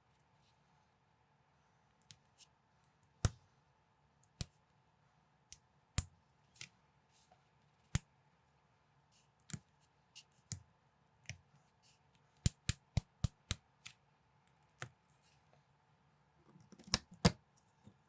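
Plastic building bricks clicking as they are handled and snapped together. The clicks come one at a time at uneven intervals, with a quick run of about five two-thirds of the way through and a denser cluster near the end.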